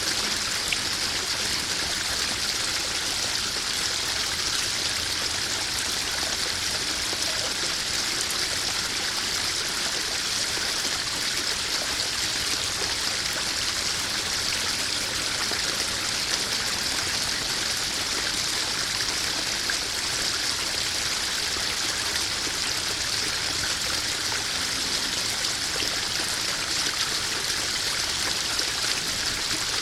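Koi pond waterfall: water splashing and trickling steadily into the pond, an even hiss with no break.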